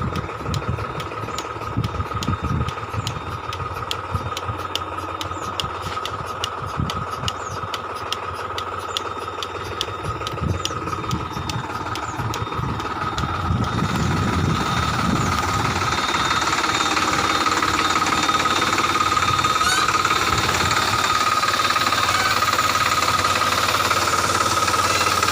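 Tractor-powered milking machine running: engine drone with a steady whine and regular ticking, growing louder about halfway through.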